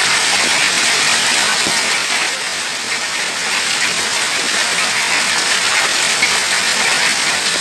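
Hail and rain pelting down in a hailstorm, a dense, steady, loud hiss of countless impacts.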